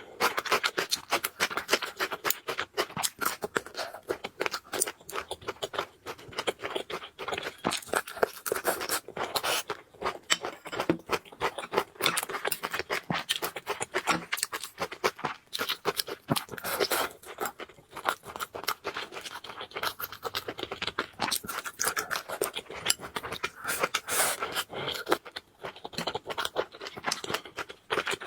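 Close-miked eating: a dense run of quick, wet clicks and crackles from chewing and mouth sounds, with no break.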